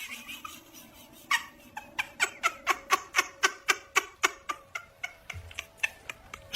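A cat making a quick run of short, repeated calls, about four a second, starting about a second in and stopping near the end.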